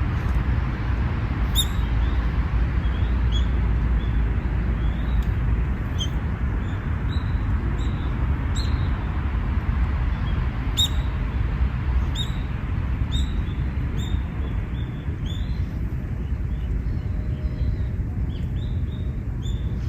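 Small birds chirping, many short sharp calls scattered throughout, over a steady low rumble.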